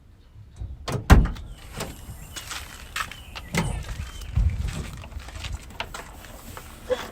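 Irregular knocks, clatter and rustling of things being handled, with the sharpest knock about a second in.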